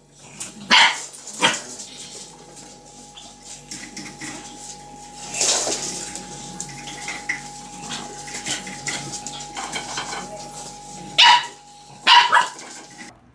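A dog barking: two sharp barks about a second in, then quieter rustling noise, then two more loud barks near the end.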